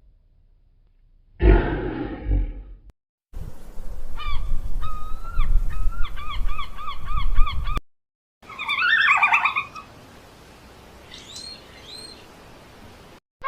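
A string of short animal-call clips: a bleat-like call, then a long run of quick repeated bird calls over low wind rumble, then a harsher call and faint chirps.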